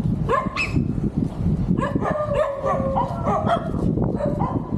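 Several dogs barking and whining at once. The calls overlap at different pitches, and some are drawn out into long, wavering whines.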